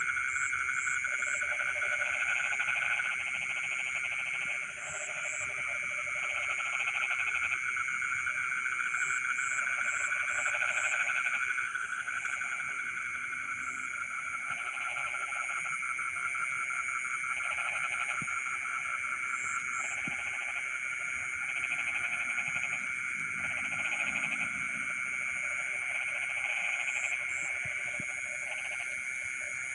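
Chorus of many frogs calling at once in a rice field: a steady high trill runs throughout, with lower croaking calls coming in stretches of a second or two and short high chirps in small groups.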